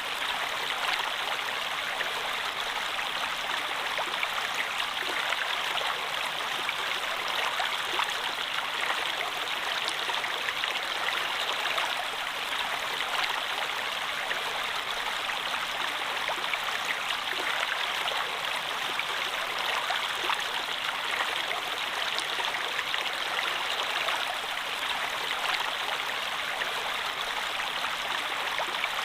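Flowing water running steadily, a continuous even rush with small splashes scattered through it.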